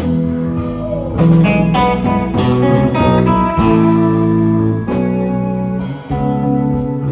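Live band playing a slow ballad, with guitar carrying a melodic fill of sustained and plucked notes over the band between sung lines.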